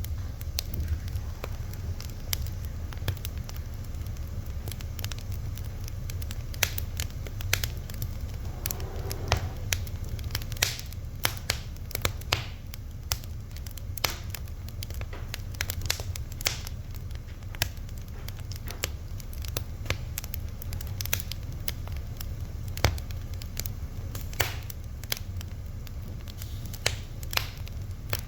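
Fire crackling: irregular sharp pops and snaps, several each second, over a steady low rumble.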